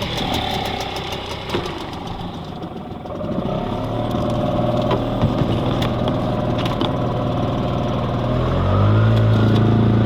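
Boat outboard motor running. It settles into a steady hum a few seconds in, then picks up in pitch and loudness about eight and a half seconds in.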